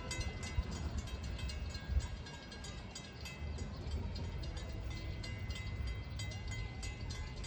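Train passing: a steady low rumble with a rapid run of clicks from the wheels on the rails.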